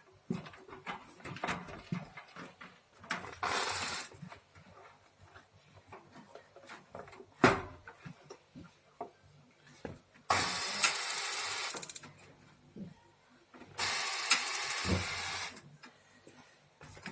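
Compressed air hissing in three bursts, about a second to two seconds each, blown into a gas water heater's water valve to test its newly replaced diaphragm, with a sharp knock between the first two bursts and small handling clicks.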